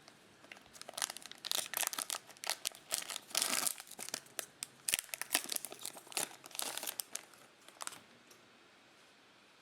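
Plastic wrapper of a trading card pack crinkling and tearing as it is ripped open, in irregular crackles for about seven seconds before stopping.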